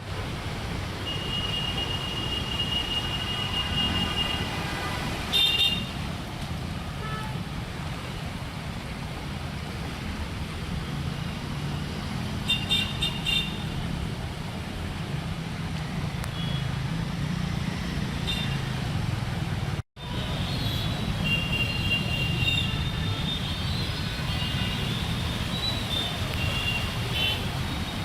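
Road traffic running steadily, with car horns honking several times, in short beeps and longer held toots.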